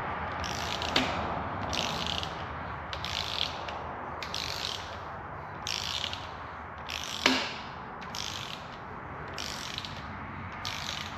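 Hand ratchet wrench clicking in repeated strokes, about one every second, as an exhaust manifold bolt is run down on a Ford 3.5 EcoBoost engine. A sharp click stands out about seven seconds in.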